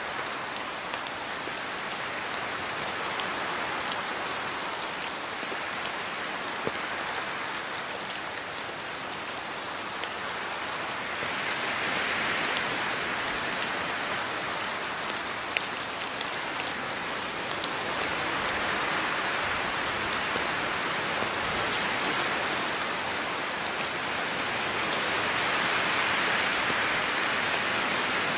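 Steady rain falling, with scattered sharp ticks of single drops striking a surface. The downpour swells louder about halfway through and again near the end.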